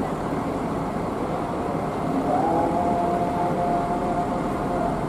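Heavy rain falling, with a bus engine's pitched drone over it that rises slightly about two seconds in and then holds steady.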